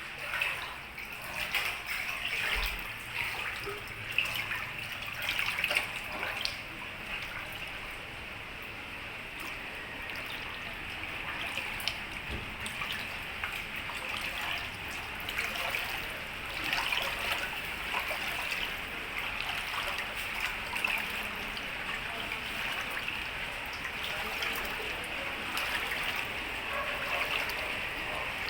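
Floodwater flowing and trickling steadily, with many small splashes and drips.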